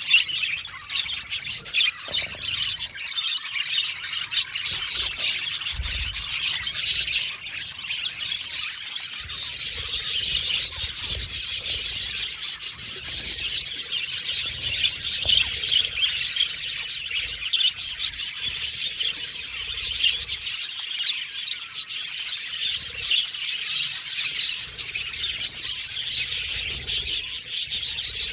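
A colony of budgerigars chirping and chattering together, many birds at once in a dense, continuous warble.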